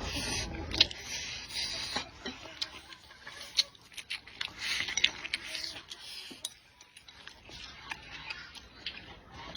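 A person eating close to the microphone: wet chewing and slurping, with many sharp clicks and short hissing bursts.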